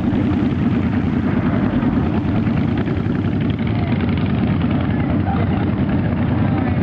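Motorcycle engines running, a steady low, rapid pulsing throb.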